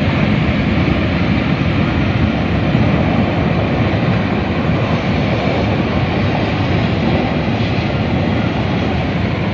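Swat River in flood, a loud, steady rush of floodwater with no letup.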